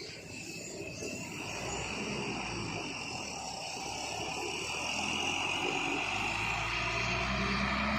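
An engine running and growing steadily louder, its low tone rising slightly in pitch near the end.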